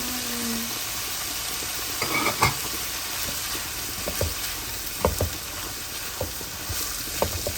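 Chopped sausage, onion and tomato filling sizzling in a frying pan while it is stirred, with scattered clicks and scrapes of the utensil against the pan.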